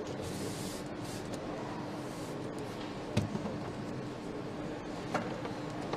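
Assembly-line noise under a steady hum, with short hissing bursts near the start, a knock about three seconds in, and a click about five seconds in.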